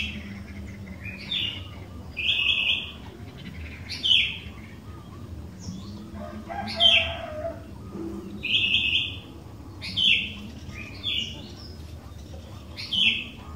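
Sooty-headed bulbul (kutilang) singing: a string of about eight short, bright, loud calls, spaced one to two seconds apart, over a low steady background hum.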